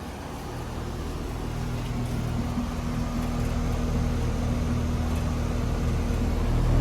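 Outdoor central air conditioner condensing unit running: a steady compressor hum with the condenser fan, growing gradually louder.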